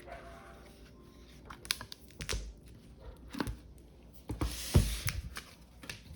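Household handling noises: scattered sharp clicks and knocks, then about four and a half seconds in a short rustling, scraping burst with a thud, the loudest sound.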